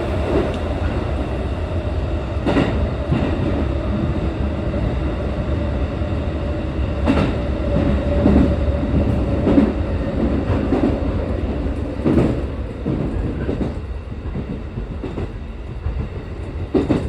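Passenger train running on rails: a steady rumble with a held tone, and a few sharp clicks of the wheels over rail joints.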